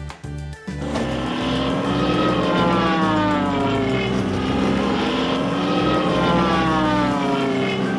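Cartoon propeller-airplane sound effect: a droning engine hum whose pitch rises and falls in slow waves, as if the plane is swooping about. It starts about a second in, just after a snatch of music.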